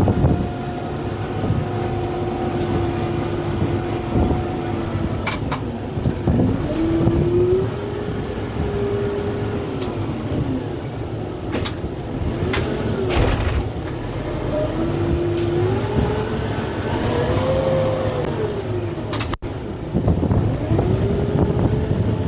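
Kubota M6-141 tractor's diesel engine working hard, its pitch rising and falling again and again as it loads up, with several sharp cracks and knocks along the way.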